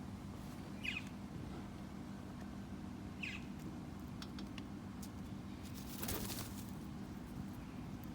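A wild bird giving two short, falling chirps about two and a half seconds apart, over a steady low hum, with scattered small clicks and a brief rustling noise about six seconds in.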